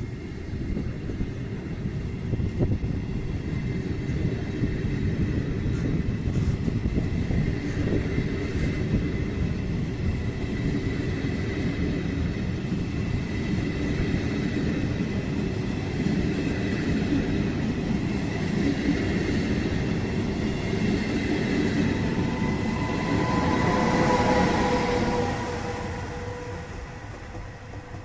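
A Trenord push-pull regional train of Medie Distanze coaches running past close by, its wheels rumbling and clattering on the rails. Near the end a whine swells, loudest about 24 seconds in, as the E464 electric locomotive at the rear goes by, and then the sound fades away.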